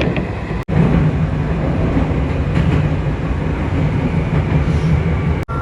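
Steady rumble and running noise of a moving vehicle. It starts abruptly about half a second in and cuts off abruptly near the end.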